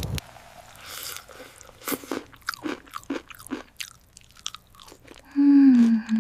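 Someone eating: crisp bites and chewing heard as scattered short crunches, then near the end a loud, falling hummed voice sound from the eater.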